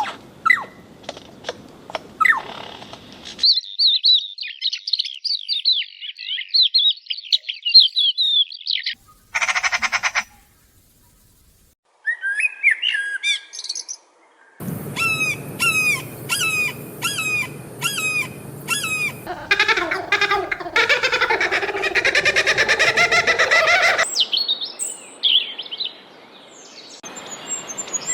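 A string of different bird calls and songs, each segment cut off abruptly for the next: a rapid high warbling, a run of repeated sharp calls, a dense chattering stretch and a high trill near the end, with a brief silence about ten seconds in.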